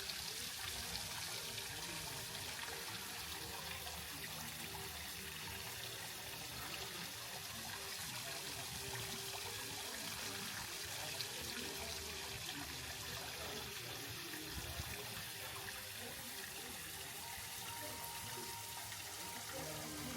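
A steady, even rushing hiss like running water that holds unchanged throughout.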